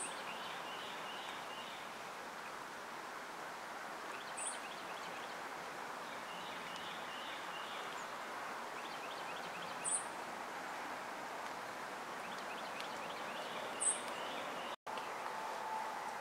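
Woodland ambience: a steady background hiss with small birds twittering every few seconds and four brief, very high-pitched chirps a few seconds apart.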